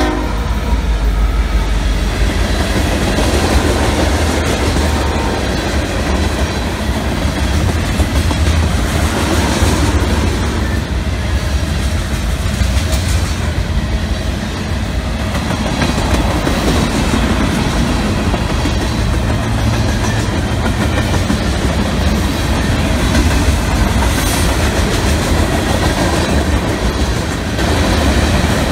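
Diesel-hauled freight train passing close by, the last locomotive followed by tank cars and lumber cars: a loud, steady rumble of steel wheels on the rails with clickety-clack from the rail joints.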